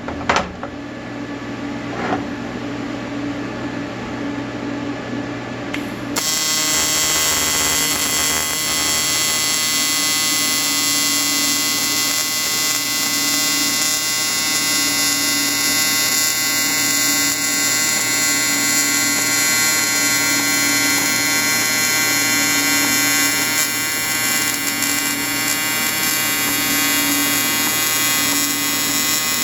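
Welding arc buzzing: about six seconds in, a loud, steady, high buzz starts suddenly and holds evenly, over a quieter hum.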